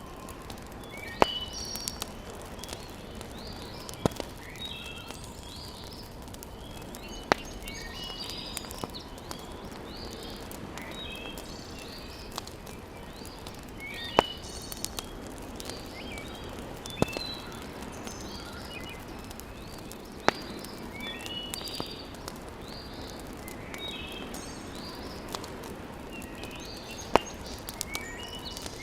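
Wood fire burning in a fireplace: a steady hiss with sharp pops every few seconds. Birds chirp throughout.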